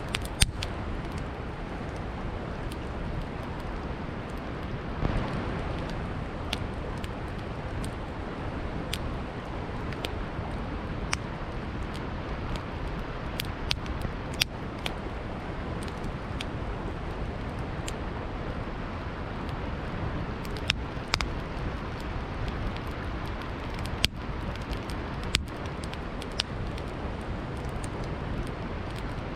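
Wood campfire crackling, with sharp pops coming at irregular moments, over the steady rush of a flowing river.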